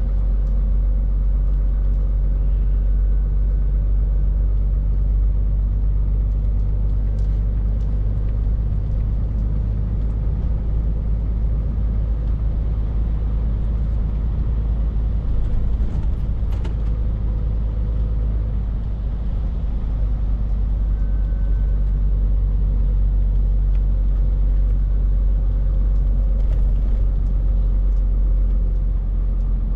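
Scania R450 truck's 13-litre inline-six diesel running steadily under way, a deep drone with road rumble. It eases briefly about two-thirds of the way through.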